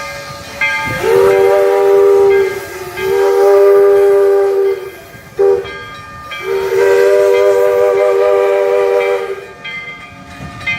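Steam locomotive whistle sounded in four blasts: long, long, a short toot, then a longer one, each sliding up into pitch as it starts, over a steady hiss. This is the long-long-short-long pattern a train sounds approaching a grade crossing.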